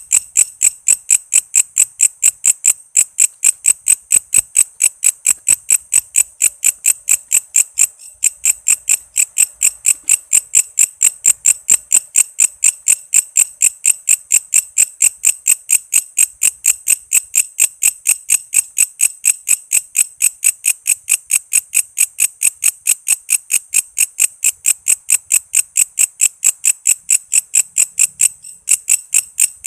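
Walang kece insect singing: a rapid, even train of short, high-pitched chirp pulses, about four to five a second, with a brief break near the end.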